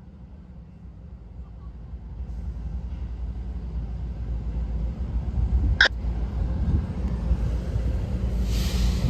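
Low rumble of an approaching train, growing steadily louder between horn blasts, with one sharp click about six seconds in.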